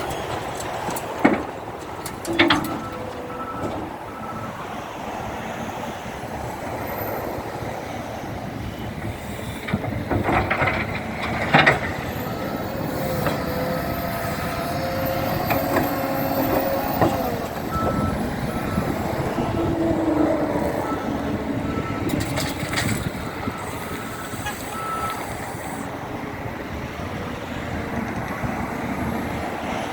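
Shovel loader's engine running steadily, with its reversing alarm beeping in several stretches. A few sharp knocks sound over it, the loudest about ten to twelve seconds in.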